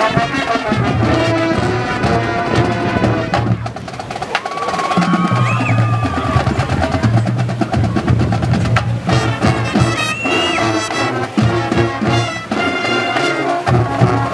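A band playing rhythmic music with drums, bass and horns, with a few sliding notes.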